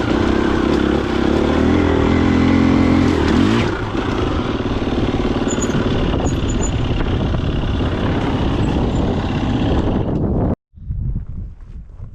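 Husqvarna FE250 dirt bike's single-cylinder four-stroke engine running under way, holding a steady pitch for the first few seconds and then running rougher. It cuts off abruptly about ten and a half seconds in, leaving a much quieter stretch with scattered light ticks.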